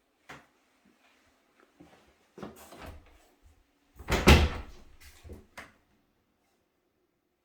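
A few clicks and knocks with a short rattle, the loudest a deep thump about four seconds in, followed by two lighter knocks.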